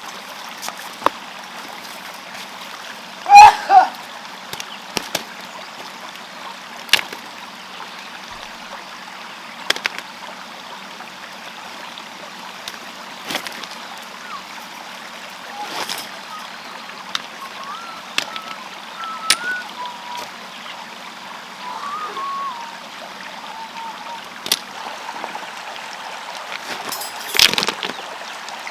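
Steady running water with scattered knocks and clicks, a louder short sound about three seconds in, and another near the end.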